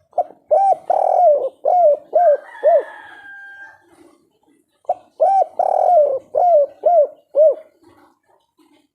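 Spotted dove (tekukur) cooing in the 'kuk 3' style: two loud phrases of about six short coos each, a couple of seconds apart.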